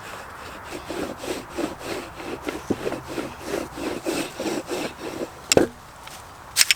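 Rhythmic back-and-forth rubbing strokes on wood, about three a second for some four seconds, then a sharp knock and a double knock near the end.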